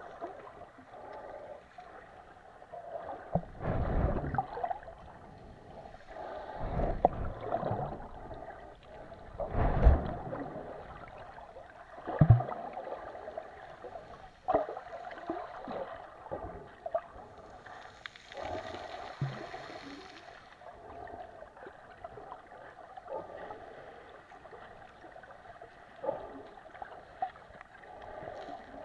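Mediterranean sea water lapping and splashing close to the microphone, a continuous wash with a few louder surges about four, seven and ten seconds in.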